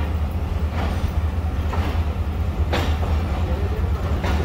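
Passenger train rolling slowly into a station, heard from aboard a coach: a steady low rumble, with a sharp wheel clack over the rail joints about once a second, four times.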